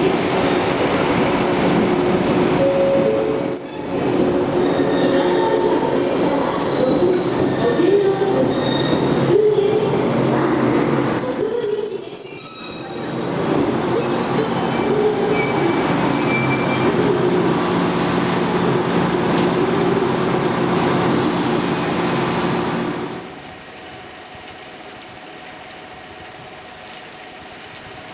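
JR Kyushu 817 series electric train running on the rails, its wheels squealing in high, shifting tones over the running noise. About 23 s in the sound cuts to a much quieter, steady hum.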